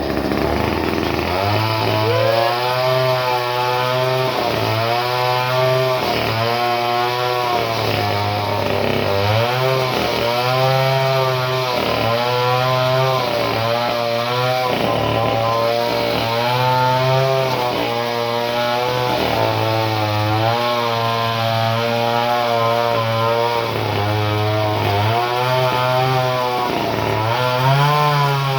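Two-stroke chainsaw engine running, its pitch rising and falling about once a second.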